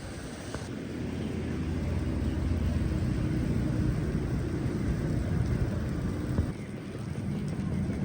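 A motor vehicle's engine running close by, growing louder over the first few seconds and then dropping away suddenly about six and a half seconds in, over a background of wind.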